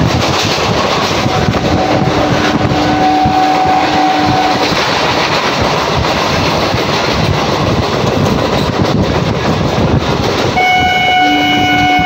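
Rumble and clatter of a suburban electric local train running on the rails, heard from on board. A horn sounds for about three seconds roughly two seconds in, and a louder, fuller horn starts near the end as an oncoming local train approaches on the next track.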